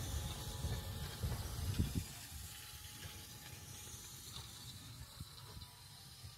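Hankyu 6300 series electric train pulling away: a low rumble with a few knocks for the first two seconds, then fading steadily as it moves off.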